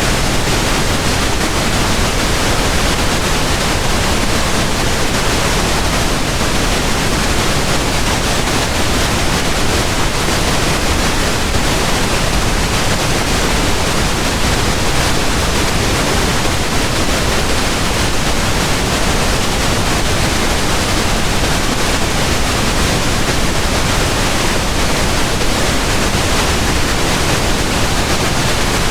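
Steady pink noise: an even, unchanging hiss spread across all pitches, with no rises, breaks or other sounds.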